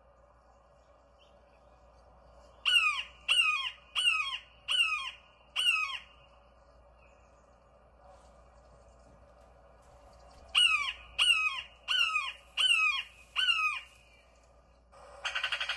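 A bird gives two runs of five harsh, squawking calls, each call sliding down in pitch, with a pause of several seconds between the runs. Near the end a loud, rapidly pulsing buzz starts.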